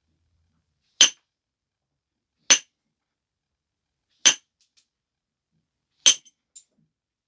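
Flintknapping strikes on a stone biface being refined. There are four sharp, clinking knocks spaced about one and a half to two seconds apart, each detaching flakes, and a couple of faint small clicks follow the last one.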